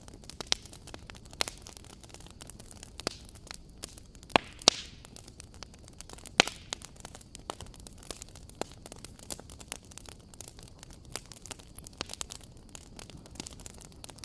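Fire crackling in a fireplace: irregular sharp pops and snaps over a soft steady hiss, with a few louder pops around four to six and a half seconds in.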